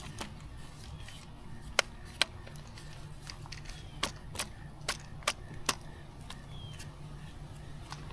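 Irregular sharp clicks and taps from handling a bicycle's rear wheel and tyre while changing the inner tube after a flat, over a steady low hum.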